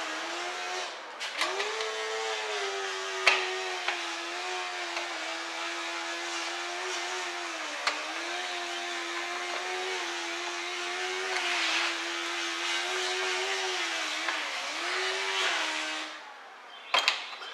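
A small electric power tool's motor running with a steady whine, its pitch sagging briefly now and then as if under load, with a sharp click a few seconds in. The motor stops near the end, followed by a couple of clicks.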